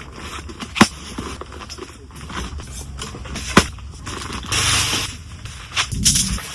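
Objects being handled, with scraping and rustling, two sharp clicks about a second in and past three and a half seconds, and a rustle near the end.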